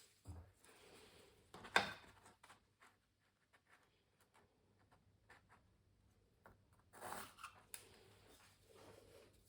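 Pencil scratching on canvas in short strokes with light taps between them, with louder scrapes about two seconds in and again about seven seconds in.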